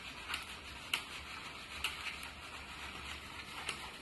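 Glue and red food colouring being stirred in a bowl with a utensil: a few faint, irregular taps and scrapes against the bowl over a low steady hum.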